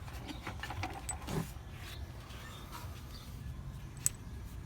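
Light clinks and taps of hand tools and metal suspension parts during disassembly, with one sharper click about four seconds in, over a low steady rumble.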